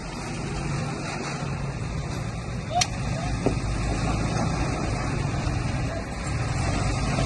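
Bulldozer's diesel engine running steadily, with one sharp click about three seconds in.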